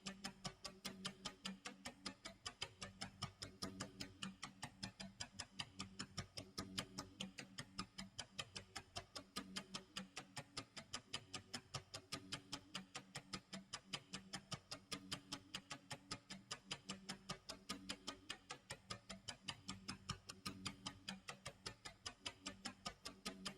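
Clock tick-tock sound effect: steady, evenly spaced ticking, a few ticks a second.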